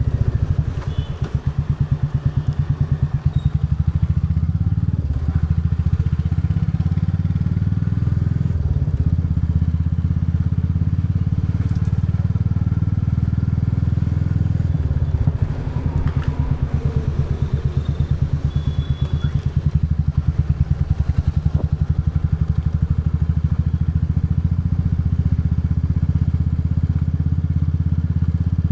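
Royal Enfield Bullet 350's single-cylinder engine and exhaust running under way, with an even pulsing beat. The loudness dips briefly about a second in and again about fifteen seconds in.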